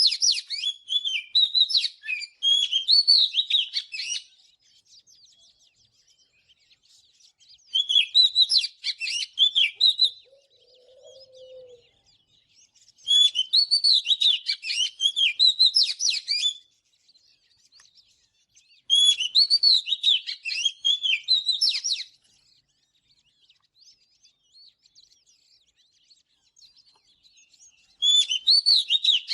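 Oriental magpie-robin singing: bursts of rapid, varied whistled phrases, each a few seconds long, come about every six seconds with short silences between them, and a new burst begins near the end.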